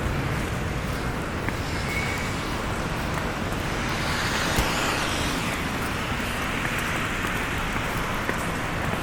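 Street traffic in a snowstorm: a steady hiss of tyres on a wet, slushy road, with one vehicle passing about halfway through.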